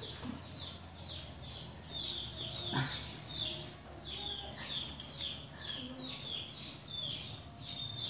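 A small bird chirping over and over: short, high chirps that fall in pitch, about two a second.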